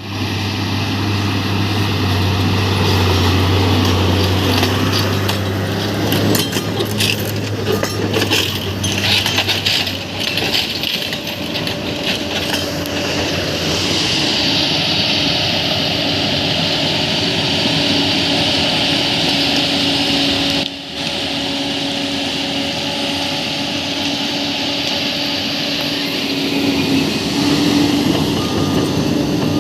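Crawler bulldozer working: its diesel engine runs under load while the steel tracks clank and squeal. About six to ten seconds in there is a run of sharp knocks and scrapes.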